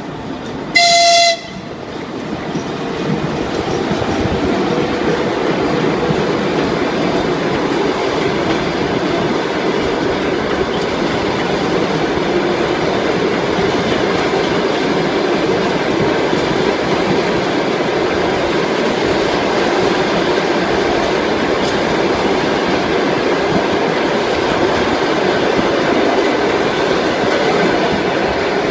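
ChS7 electric locomotive sounding its horn in one short blast about a second in, then the passenger train rolling past with steady wheel-and-rail noise and clickety-clack that builds over the first few seconds and holds.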